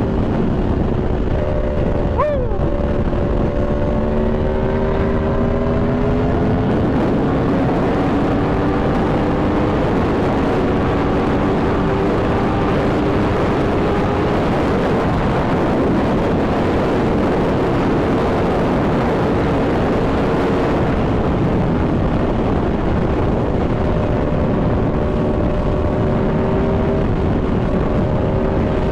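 Aprilia Tuono V4's V4 engine running under way at a steady pace, its note rising slowly as it gently accelerates, mixed with heavy rushing wind noise.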